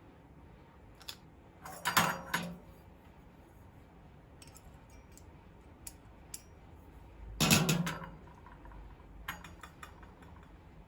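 Metal tools and faucet parts clinking and clattering as they are handled, with two louder clatters, about two seconds in and again past the middle, and a few light clicks between.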